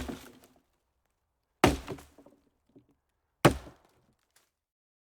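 Three sharp knocks, evenly spaced less than two seconds apart, each dying away quickly.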